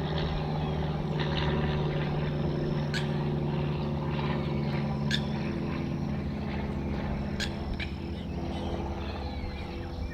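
Steady low drone of a light propeller aircraft flying over, fading slightly near the end.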